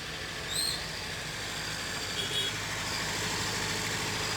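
A vehicle engine idling steadily, kept running during an engine decarbonising service. Two short high chirps sound over it, one about half a second in and one about two seconds in.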